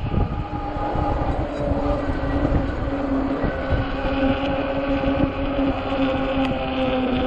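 Ecotric 48V fat-tire e-bike under power: the hub motor gives a steady whine while wind rumbles on the microphone.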